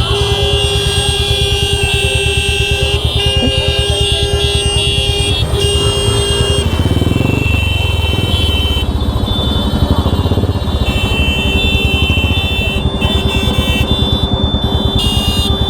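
Heavy road traffic with many vehicle horns honking, one held tone in the first half and others starting and stopping over each other, above a steady rumble of engines including motorcycles.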